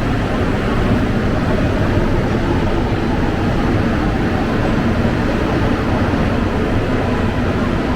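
Steady rumble and running noise of a subway train, with no distinct knocks or tones.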